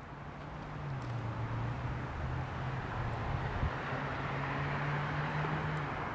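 Diesel locomotive approaching: a steady low engine drone with rising rail and wheel noise, building over the first second or so and then holding steady.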